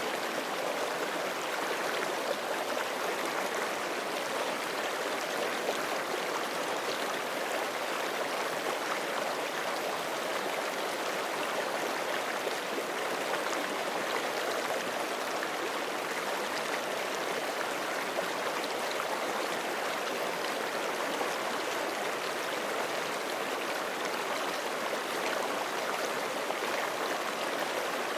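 Forest creek flowing steadily over rocks, an even rushing with fine splashing and gurgling.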